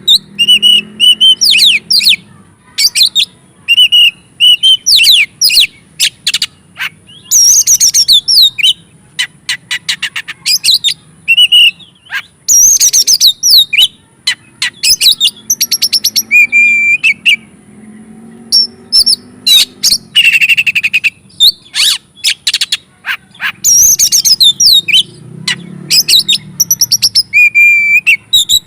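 Oriental magpie-robin (kacer) singing a fired-up, varied song: loud whistled phrases and chirps mixed with rapid clicking rattles, in bursts with short pauses between them. This is the excited song that bird keepers play to rouse other magpie-robins.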